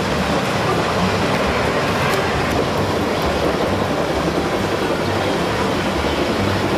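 Freight train rolling past, with a steady noise of steel wheels on rails.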